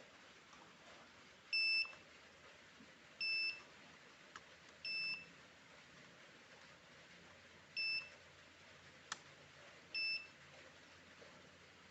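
Buzzer salvaged from a UPS, switched by a toy RC car's remote-control receiver as a wireless doorbell, giving five short high-pitched beeps, each about a third of a second long, at uneven gaps. A couple of faint clicks fall between the beeps.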